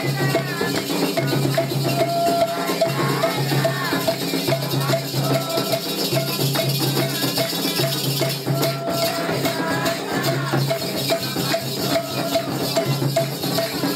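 Candomblé ritual music for Xangô: drums, a metal bell struck in a steady repeating pattern and a shaker rattle, with voices singing over them.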